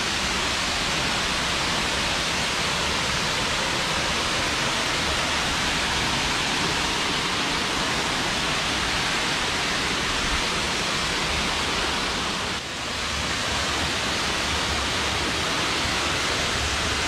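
Waterfall: a steady, dense rush of falling water, with a brief dip in level about two-thirds of the way through.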